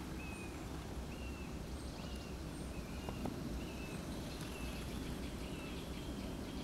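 A bird calling in the trees: one short note repeated evenly, about eight times, roughly one every second, over a steady low background hum.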